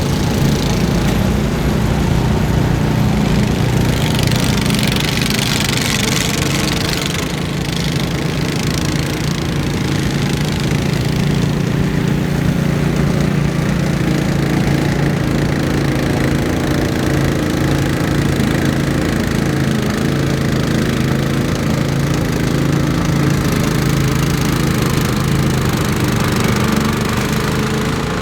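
An engine running steadily with an even drone, with a brief rush of hiss about four to seven seconds in.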